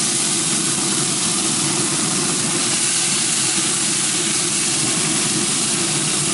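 Steady hiss of teriyaki-marinated chicken sizzling on a hot Traeger pellet grill, over a low, even hum.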